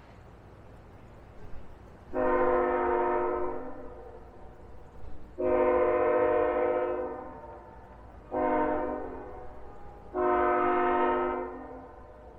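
Locomotive air horn sounding the grade-crossing signal: two long blasts, one short, one long, a multi-note chord, over a low rumble of the approaching train.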